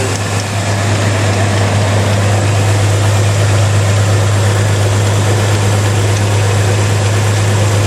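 1987 Chevy S10 pickup's engine idling steadily. A pulley on the engine is wobbling, which the owner thinks means it is bent.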